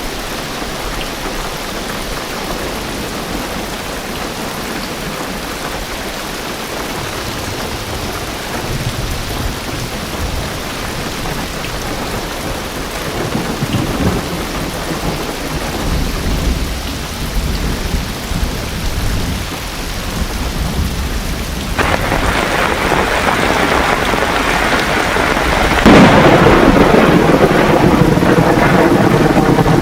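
Heavy rain drumming on a car roof during a thunderstorm. A low thunder rumble builds from about a third of the way in, the rain suddenly grows louder, and a loud crash of thunder breaks near the end and keeps rolling.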